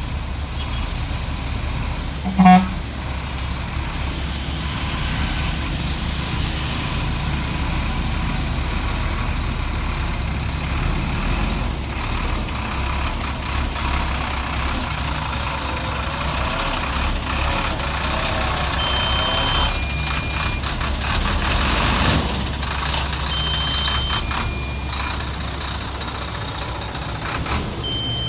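Heavy diesel earthmoving machinery running steadily. About two and a half seconds in there is a short, loud horn toot. In the second half a two-tone reversing alarm beeps slowly a few times over rattling machinery noise.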